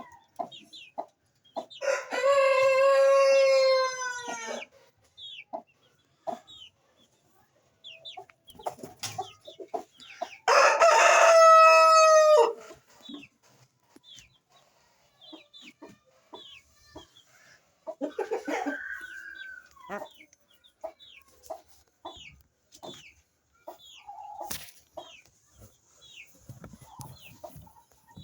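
A rooster crows twice, each crow lasting two to three seconds, the second about eight seconds after the first. Between and around the crows there are many short, high peeps from chicks and occasional softer clucking.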